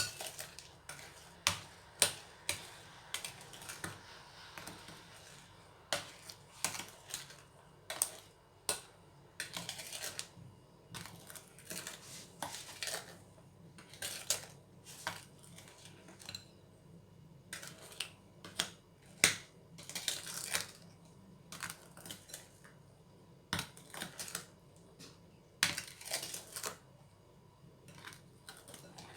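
A kitchen utensil scraping and knocking against a mixing bowl as cake batter is mixed with folded-in beaten egg whites, in irregular sharp clicks and short scraping swishes.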